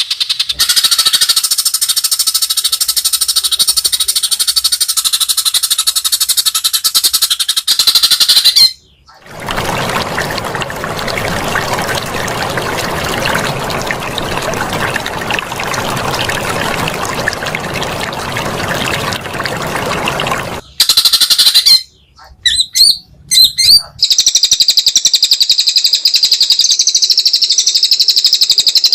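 Recorded songbird calls spliced together with abrupt cuts: long, rapid, high buzzing trills at the start and end, and a harsh rattling stretch of about eleven seconds in the middle, broken by a few short bursts.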